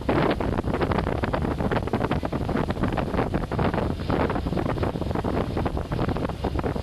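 Wind buffeting the microphone of a moving motorcycle: a loud, steady, fluttering rush.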